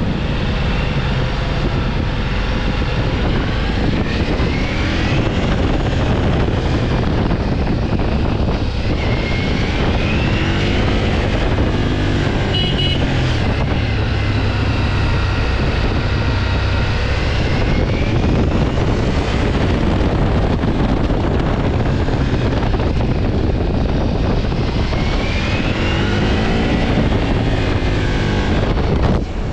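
Ducati Multistrada V4 S's V4 engine under way, its pitch rising several times as it accelerates through the gears, over steady wind noise.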